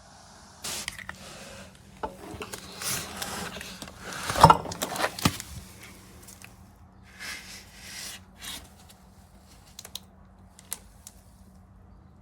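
Handling noises: scrapes, rustles and clicks, with one louder knock about four and a half seconds in and a few sharp ticks near the end, over a steady low hum.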